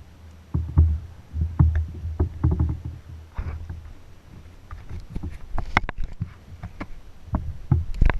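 Kayak being paddled: a low, uneven rumble for the first few seconds, then a scatter of sharp clicks and knocks.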